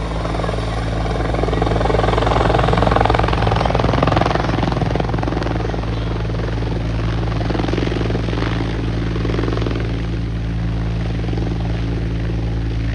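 Helicopter running close by: a steady, fast rotor chop with the whine of its engine. It swells louder a couple of seconds in, then holds a little lower and steady.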